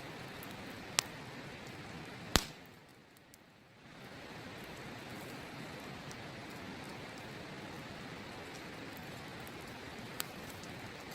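Wood campfire crackling over the steady rush of a river, with three sharp pops from the burning wood, the loudest about two seconds in. Right after that loudest pop the background rush briefly drops away for about a second and a half, then returns.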